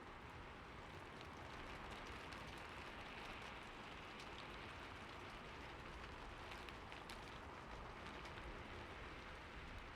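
Steady rain falling on a roof, an even hiss with many small drop ticks scattered through it.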